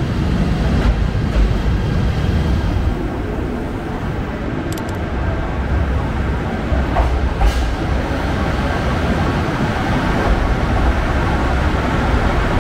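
JR Hokkaido trains moving through a station: a 721 series electric commuter train pulling out while the pink 261 series diesel train rolls in along the platform. A steady rumble of wheels and motors, with a few sharp clicks.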